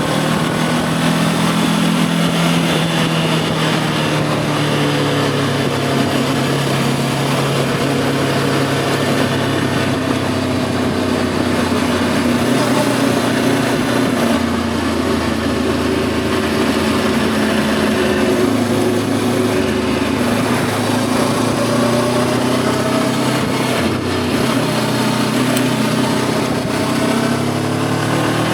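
Voge 525 DSX motorcycle's parallel-twin engine running under way at steady road revs, the note easing off and picking back up gently a couple of times.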